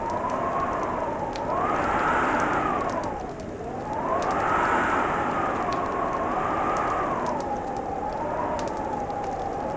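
Wind howling in slow swells, its pitch rising and falling every two to three seconds, over the scattered pops of a wood fire crackling.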